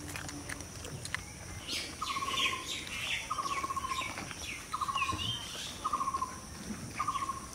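Birds calling: one repeats a short, slightly falling note five times, about once every second and a quarter, with higher chirps over it.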